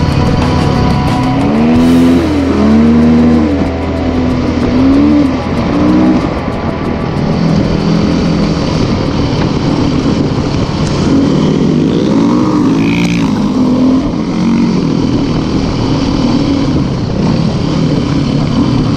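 Off-road motorcycle engine revving up and down repeatedly, its pitch rising and falling in quick swells, over a steady dense roar.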